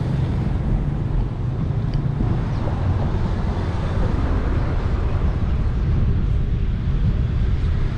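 Steady low wind rumble on the microphone of a camera riding along on a bicycle, with street traffic noise mixed in.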